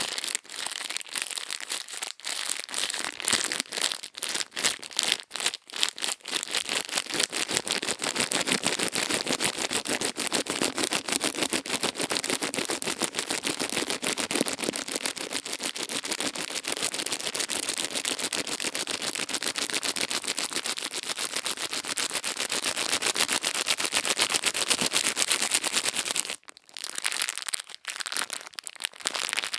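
Close-miked ASMR ear-cleaning sounds: a dense, continuous crisp crackling and scratching worked against the microphone, with a brief pause about 26 seconds in.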